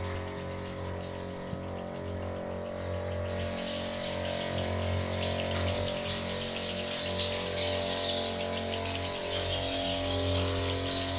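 Busy, continuous twittering of swiftlets, getting louder in the second half, over a steady low mechanical hum.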